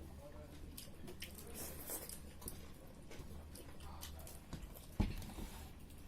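People eating: wet chewing and scattered small clicks, with one sharper knock about five seconds in.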